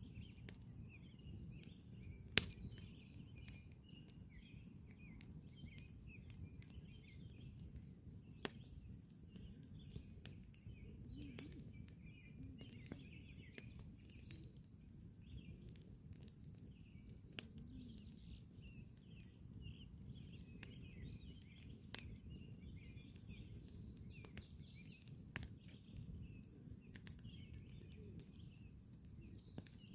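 Campfire crackling faintly, with irregular sharp pops every few seconds, the loudest about two and a half seconds in, over a low steady rumble. Birds chirp continuously in the background.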